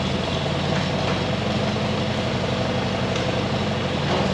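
Large farm machine engine idling steadily.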